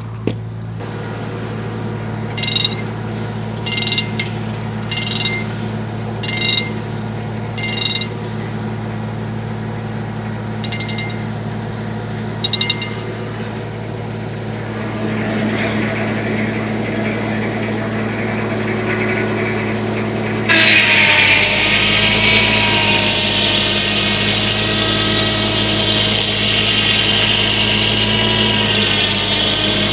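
Homemade circular sawmill: the tractor driving it runs steadily, with a few short high chirps early on, then about two-thirds in the big blade bites into a log and loud, steady sawing takes over.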